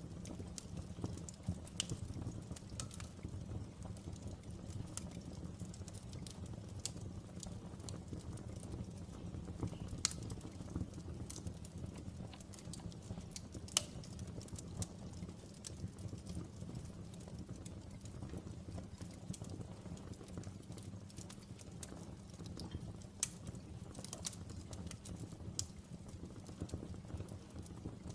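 Wood fire burning with a low steady rumble and frequent irregular sharp crackles and pops, a louder pop about 14 seconds in.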